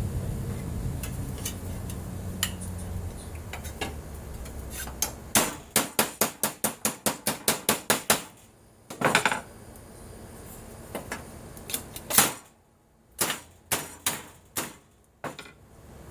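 Hammer striking an aluminum brace to shape it: a quick run of light taps, about five a second, then several heavier single blows with pauses between them, one ringing briefly.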